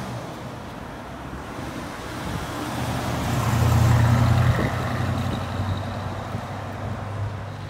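Classic first-generation Ford Mustang fastback's engine running as the car drives past, a low rumble that builds, is loudest about four seconds in as it passes close, then fades as it pulls away.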